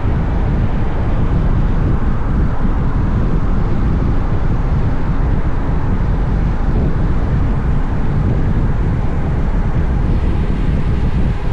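Steady wind rush on the microphone with engine and road noise from a Honda X-ADV, a 745 cc parallel-twin motorcycle, riding along at a constant pace.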